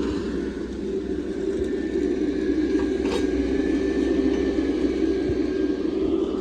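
Hydraulic excavator's diesel engine running steadily, with a thin high whine through the middle and a single sharp click about three seconds in.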